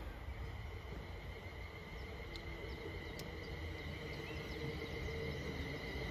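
Faint low rumble of an approaching Class 350 electric multiple unit, growing louder toward the end. Under it run a steady high hum, a couple of faint bird chirps and two sharp clicks a little under a second apart, near the middle.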